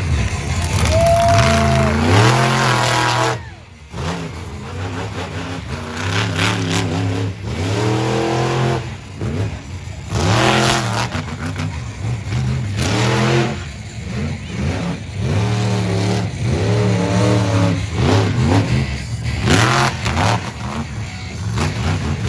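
Monster truck engine revving hard in repeated surges, its pitch climbing and falling again and again, with a short drop-off about three and a half seconds in.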